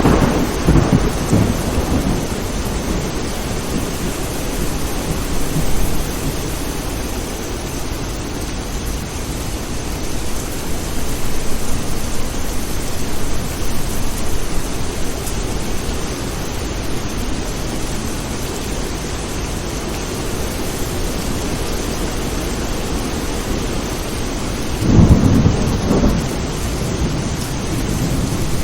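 Steady rain with rolls of thunder: one rumble fading over the first couple of seconds and another, the loudest, near the end.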